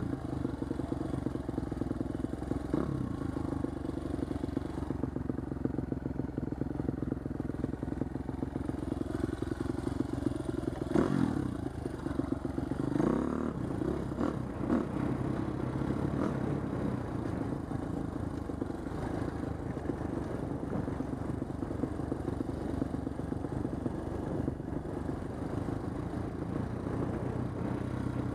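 Husqvarna TC250 dirt bike's single-cylinder four-stroke engine running under way, with the revs swinging up and down twice around the middle, and chassis clatter over rough ground.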